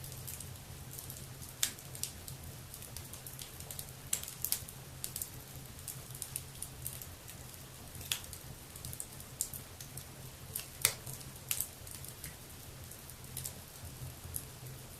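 Wood fire burning in a fireplace, crackling with irregular sharp pops, the loudest about eleven seconds in, over a steady low rumble.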